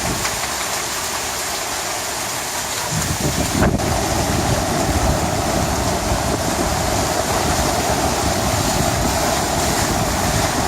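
Heavy tropical downpour, a steady dense rush of rain. About three seconds in, a low rumble joins it and continues.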